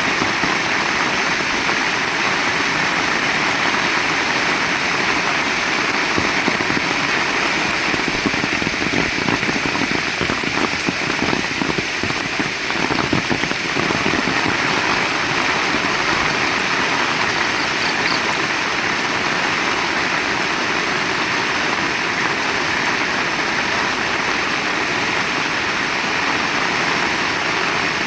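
Heavy rain falling steadily, a dense even hiss of drops, with a slightly heavier patter in the middle.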